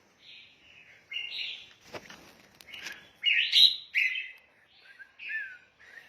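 Red-whiskered bulbuls chirping: a series of short, bright calls, the loudest coming a little after the middle. A single sharp click sounds about two seconds in.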